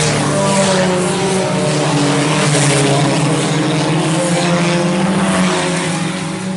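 IMCA Sport Compact race cars running at speed in a pack, a steady engine drone with slight shifts in pitch as the cars go by.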